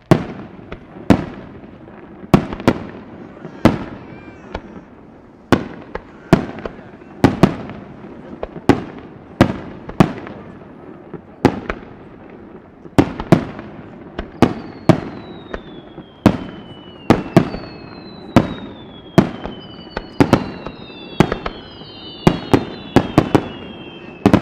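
Fireworks display: a steady run of aerial shell bursts, sharp bangs with echoing tails, about one to two a second. From about halfway, several whistling fireworks join in, their whistles falling in pitch and overlapping near the end.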